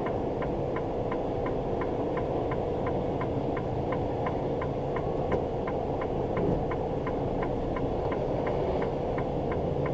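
Semi-truck cab drone of engine and road, with a steady hum, under an even ticking about three times a second from the turn-signal flasher.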